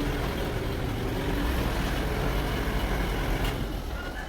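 Sawmill machinery running steadily, a continuous low rumble of motor noise.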